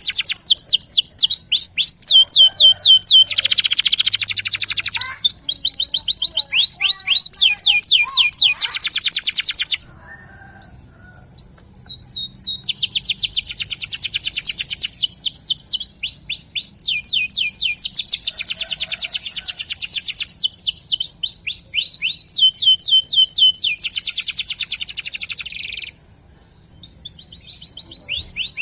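Local canary singing vigorously in long, rapid rolls of repeated downward-sweeping notes, with short breaks about ten seconds in and near the end.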